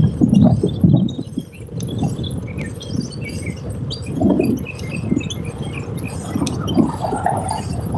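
Wind buffeting the microphone in irregular low gusts while riding a bicycle, with light clicking and jingling rattles from the bike and the hand-held phone.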